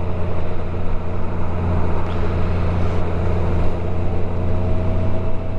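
Motorcycle engine running at a steady cruise with wind and road noise, a constant low drone that does not change.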